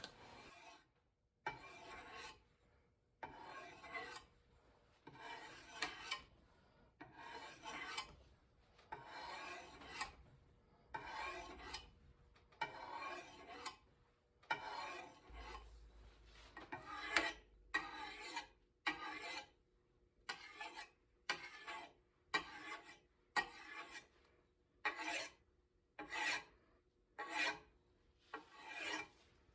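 Rhythmic hand abrasive strokes, a file or sanding block rasping back and forth about once a second, each stroke a short scrape followed by a brief pause.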